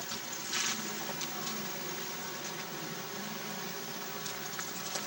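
Steady running noise of a car driving slowly, heard from inside the cabin, with a faint buzzing hum.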